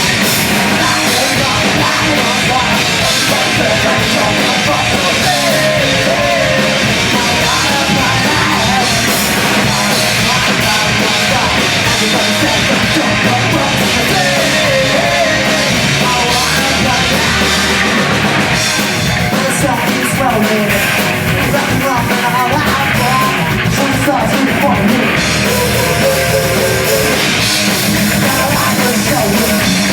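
A live hardcore punk band plays loud, dense distorted guitars, bass and a drum kit without a pause, with a wavering melodic line over the top.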